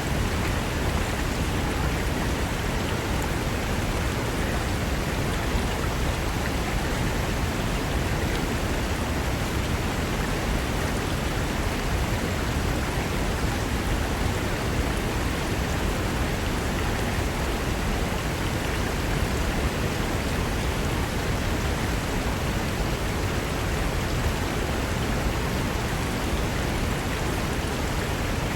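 Mountain river rushing over rocks, a steady, unbroken roar of water.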